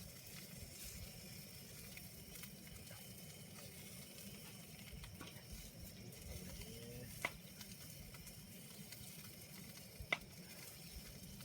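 Faint steady sizzling of food frying in a pan over a wood fire, with two sharp crackling pops, about 7 and 10 seconds in.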